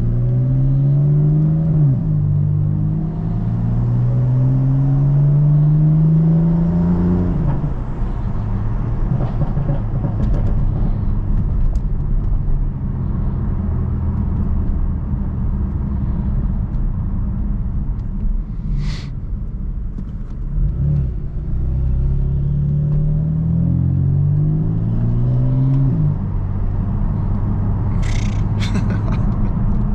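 BMW F82 M4's twin-turbo straight-six engine pulling through the gears: the pitch climbs, drops at a shift about 2 s in, and climbs again until about 7 s. It then runs steadily with road noise, and climbs through a few more quick shifts later on.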